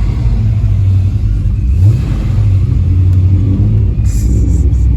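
Procharger-supercharged C6 Corvette V8 running under way, a heavy low drone with a short rise in engine pitch about two seconds in.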